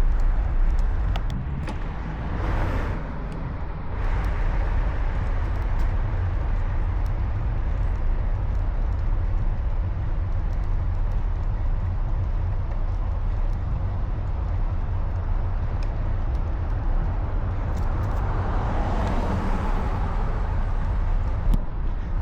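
Wind rumble on the microphone and road traffic noise during a bicycle ride through city streets, with vehicles passing twice, once near the start and once near the end.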